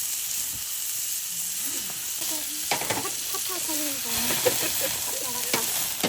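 Wood fire burning: a steady sizzling hiss with a few sharp pops and cracks in the second half.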